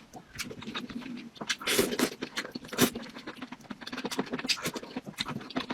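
Close-miked eating sounds: chewing and mouth noises with a run of irregular wet clicks and crunches, the loudest about two and three seconds in.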